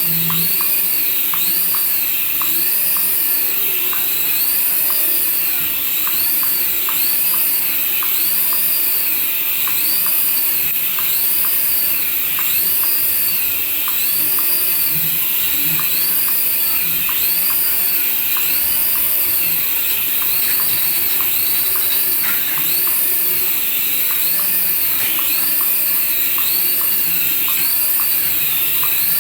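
Battery-powered light-up toy running: a steady high whirring motor under a repeating electronic warble, rising and falling about once a second, with faint clicks.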